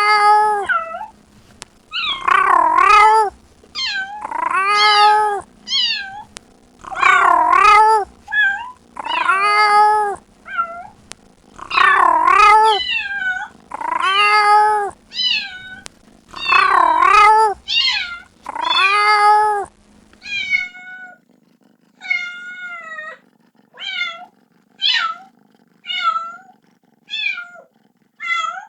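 Kitten meowing over and over, calling for its mother: long, loud meows about every two seconds, then, after about twenty seconds, shorter, quieter and higher meows coming about once a second.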